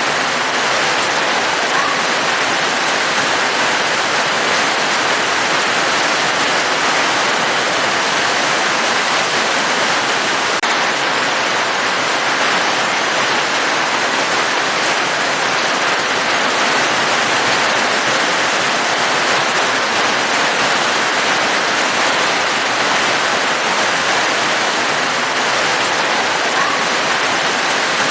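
Falling water making a steady, even hiss with no breaks or separate drops standing out.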